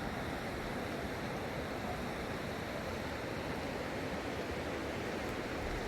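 Steady rush of fast-flowing floodwater in a river, an even noise without breaks.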